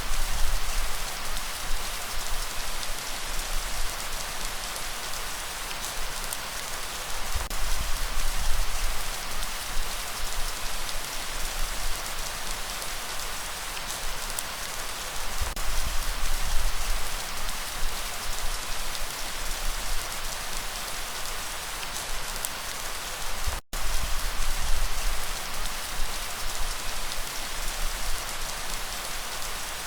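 Steady heavy rain falling, an even hiss of drops with a deep low rumble that swells and fades every several seconds. The sound cuts out completely for an instant about three-quarters of the way through.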